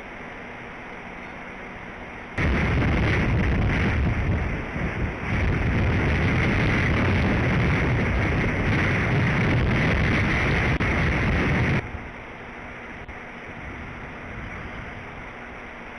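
Strong wind gusting across the nest-camera microphone: a loud, deep rush of wind noise that starts abruptly about two seconds in and cuts off just as suddenly about four seconds before the end, over a quieter steady wind hiss.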